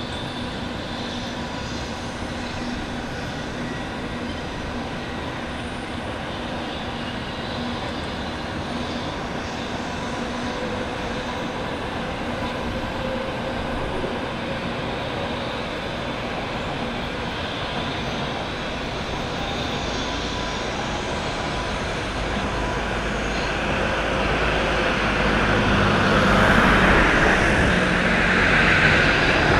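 A Shinkansen train running, a steady rumble and whoosh with a faint hum of steady tones, growing louder over the last several seconds as it comes closer.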